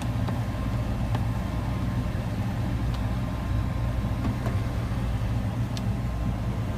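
Gas furnace running steadily after relighting, its burner and draft inducer fan making an even low hum. A few faint clicks sound over it.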